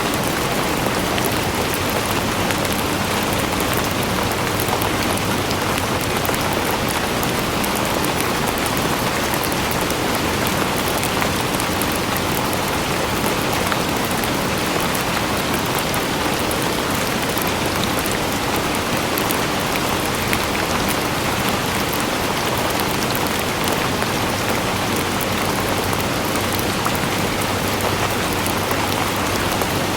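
Steady rain falling and pattering on a surface, an even hiss of countless drops that doesn't change.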